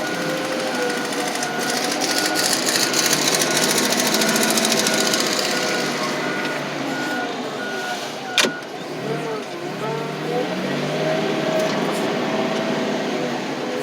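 Heavy machine's engine running while its backup alarm beeps steadily, about two beeps a second. The beeping stops at a single sharp bang about eight seconds in, and the engine then rises and falls in pitch.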